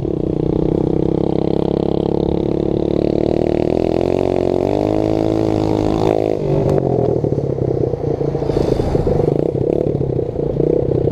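Small dirt-bike engine running close by. It revs up for about two seconds from roughly four seconds in, drops off suddenly, and then runs on rougher and more uneven.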